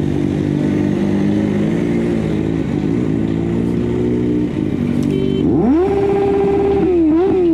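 Motorcycle engine running at steady revs, then revving up sharply about five and a half seconds in, holding high and dropping back near the end.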